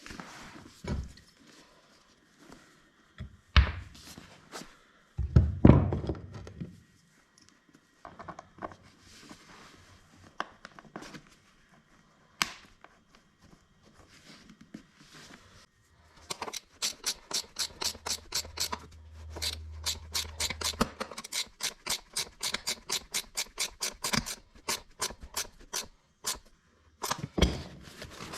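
Hand work on a motorcycle seat cover: scattered knocks and thuds, one heavier thud several seconds in, then from about halfway a long run of sharp, regular clicks, about four a second.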